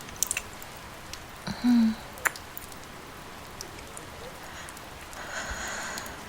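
Steady rain ambience, an even hiss with scattered sharp drop ticks, under a brief vocal sound about one and a half seconds in and a soft swell of breathy noise near the end.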